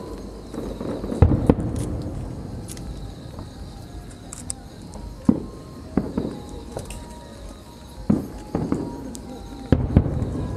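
Aerial fireworks shells bursting: about seven sharp bangs at irregular intervals of one to three seconds, each trailing off in an echo.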